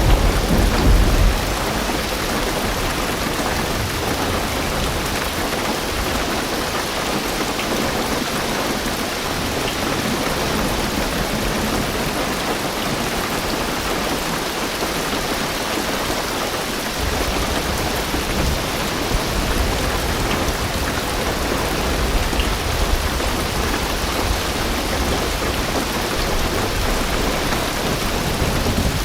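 Heavy rain drumming steadily on a car roof and windows, heard from inside the car. A low rumble of thunder comes at the start and again through the latter part.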